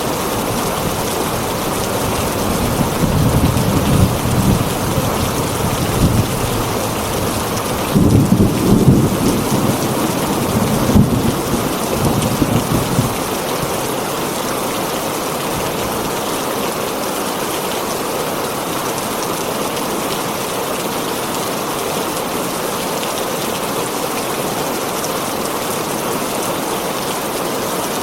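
Heavy rain drumming steadily on a tin roof, with a roll of thunder rumbling low through the first half, loudest about eight to eleven seconds in, then dying away to the rain alone.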